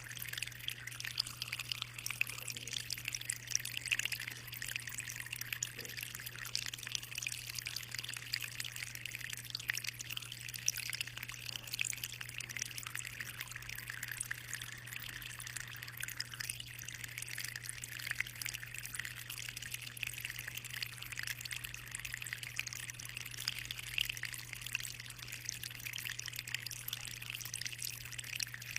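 Aquarium water trickling and splashing steadily, a dense patter of small drips, with a steady low hum underneath.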